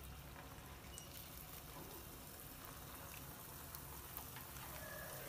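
Cornflour-coated soya chunks sizzling faintly in hot oil as they are dropped in one at a time for deep-frying, with an occasional small tick.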